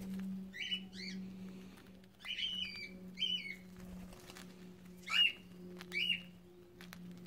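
Cockatiels giving short chirping calls, about six in all, some in quick pairs, over a steady low hum.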